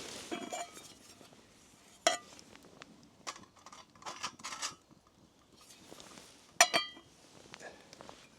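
Metal camping cookware being handled: clinks and rattles, with two sharp ringing knocks, one about two seconds in and a louder one near the end.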